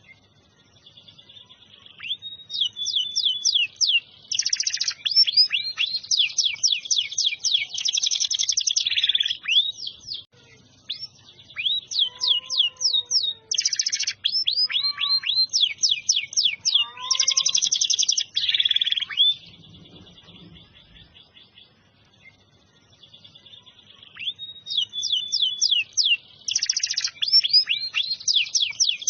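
Domestic canary singing in long phrases of fast trills and quickly repeated high notes. There are three bouts of song, with pauses of one to four seconds between them.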